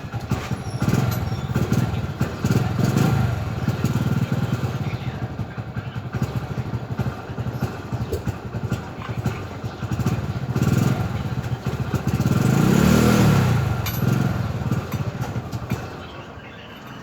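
A motor engine running unevenly, swelling louder for a couple of seconds about three-quarters of the way through.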